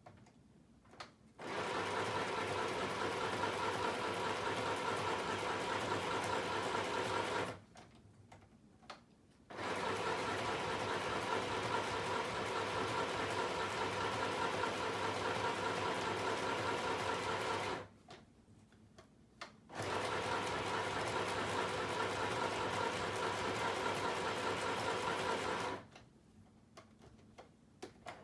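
Sewing machine stitching a zigzag stitch in three steady runs of about six to eight seconds each, stopping briefly between them, with a few small clicks in the pauses.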